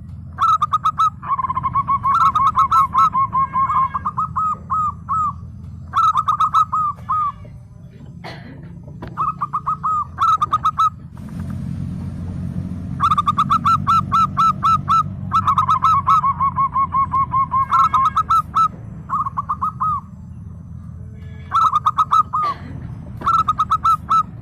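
Zebra dove (perkutut) singing: rapid runs of short, clipped cooing notes in bursts of one to three seconds, repeated again and again with short pauses, over a steady low background rumble.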